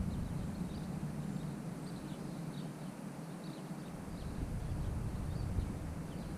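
Greenworks 80V electric mini bike riding over hard icy snow: a steady rushing noise of tyres and wind. Faint short high chirps come about twice a second throughout.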